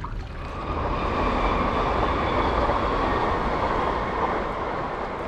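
Steady rushing noise of a passing vehicle, with a faint high whine, swelling about half a second in and easing off slightly near the end.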